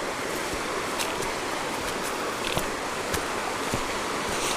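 Steady rush of river water, with a few faint clicks scattered through it.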